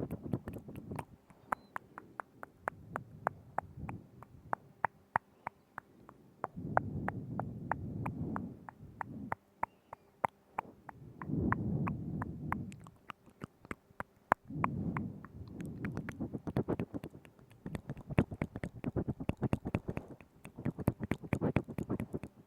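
Close-miked ASMR mouth sounds: a rapid run of wet tongue and lip clicks, several a second, broken every few seconds by low, muffled swells lasting a second or two.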